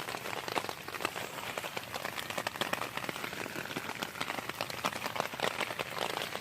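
Heavy rain falling, a steady hiss with a dense, irregular patter of drops striking close by.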